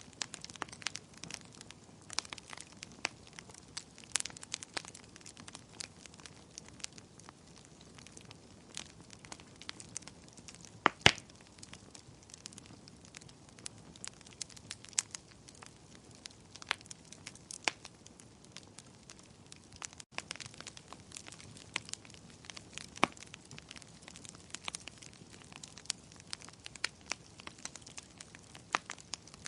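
Fire crackling: irregular sharp pops and snaps over a soft hiss, with one louder pop about eleven seconds in.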